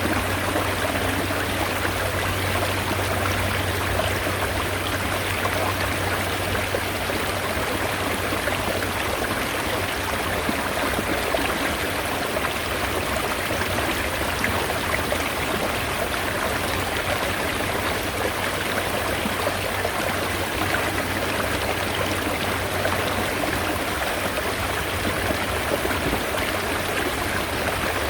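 Mountain stream water running steadily, an even rushing with a steady low hum beneath it.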